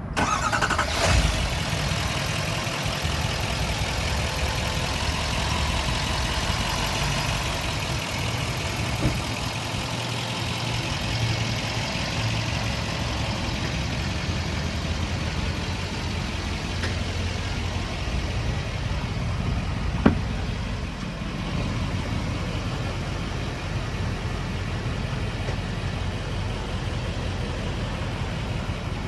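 Engine idling steadily, with a brief surge about a second in and one sharp click about twenty seconds in.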